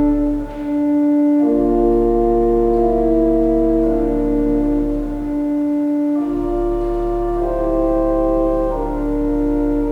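Organ playing slow, held chords that change every second or two over a deep bass note, which drops out twice.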